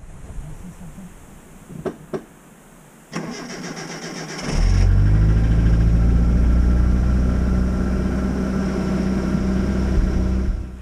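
A car engine being started: two sharp clicks, then the starter cranks for about a second and a half before the engine catches and runs steadily. It cuts off suddenly at the end.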